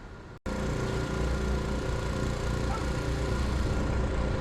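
An engine running steadily at idle, a low, even hum that cuts in abruptly about half a second in.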